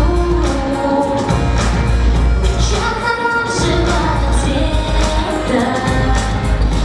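Pop song performed live, with a woman singing the melody over a steady beat and a strong bass.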